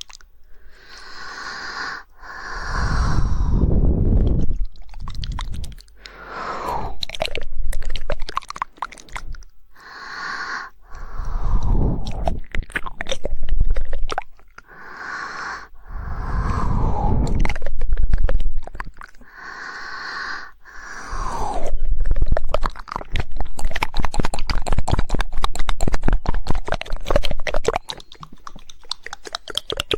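ASMR mouth sounds close to the microphone: wet mouth and tongue sounds in long sweeping passes, broken by quick clicking, then about two-thirds of the way in a dense, unbroken run of very rapid 'woodpecker' tongue clicks.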